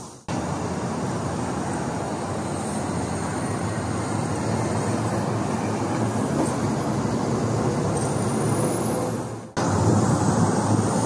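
Metro train running: a steady low rumble and rush of noise with a faint high whine that rises near the end. The sound breaks off abruptly just after the start and again near the end, coming back louder each time.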